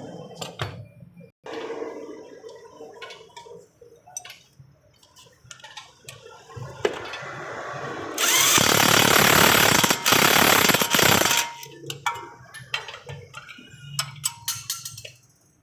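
A power tool runs in one loud burst of about three seconds, dipping briefly in the middle, amid scattered metallic clinks and knocks of tools being handled.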